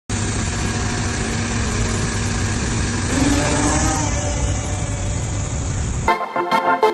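Steady, noisy urban traffic rumble with vehicle engines, which cuts off suddenly about six seconds in as organ-like keyboard music starts.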